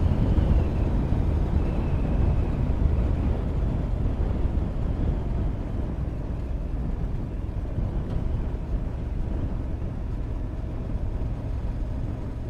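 Riding on a motorcycle: steady wind rush over the microphone with engine and road noise underneath, dropping a little in loudness about five seconds in.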